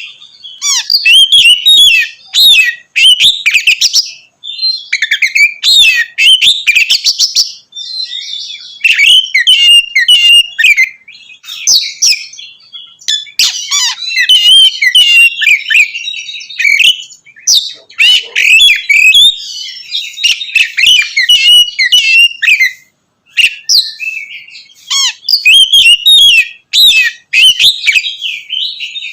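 Oriental magpie-robin (kacer) singing loudly in a rapid, varied song of whistled phrases, sliding notes and sharp chattering strokes, broken by a couple of brief pauses.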